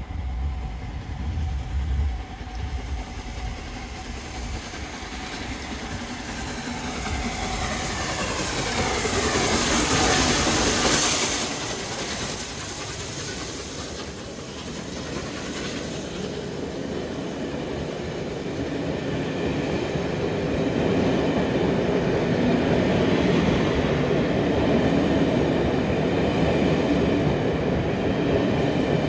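A train passing on the line, its wheels clattering over the rail joints. The sound swells to its loudest about ten seconds in, with a falling pitch as the train goes by, then the coaches keep rolling past.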